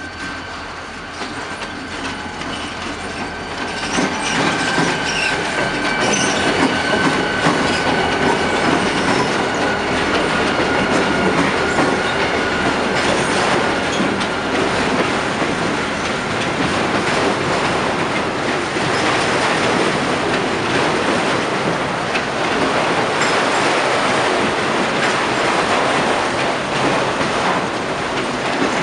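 A Canadian Pacific freight train passing close by: the locomotives come up and go past, and the sound grows louder about four seconds in, then a long string of autorack cars rolls by with wheel clatter. A high, steady wheel squeal sounds over the first half and fades out about halfway through.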